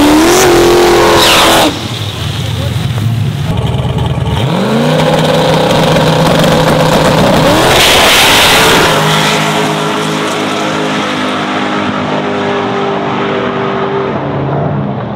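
Turbocharged LS V8 drag truck engine accelerating hard, its pitch climbing in sweeps through the gears. It drops off sharply about two seconds in, climbs again and holds, gives a loud rushing burst about eight seconds in, then runs on at a steadier, lower level.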